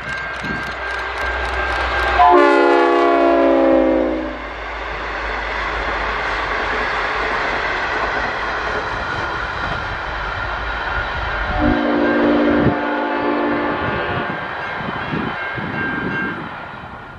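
V/Line N class diesel locomotive hauling a passenger train past, with a steady rumble of wheels on the rails. It sounds its multi-note horn in a long blast about two seconds in that drops in pitch as it goes by, and blows a second blast about twelve seconds in.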